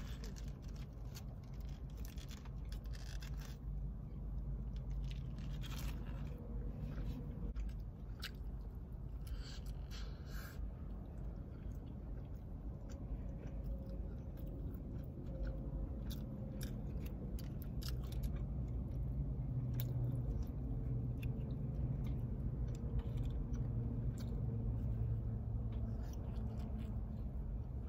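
Close-up chewing and biting of a double cheeseburger, with crinkling of its foil wrapper in roughly the first ten seconds, over a steady low hum.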